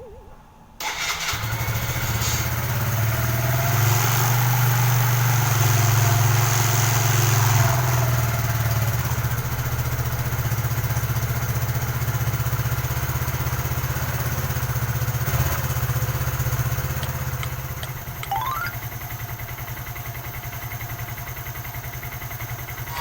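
Suzuki GN125H's single-cylinder four-stroke engine starting about a second in on its freshly recharged battery. It runs a little faster for several seconds, then settles to a steady idle.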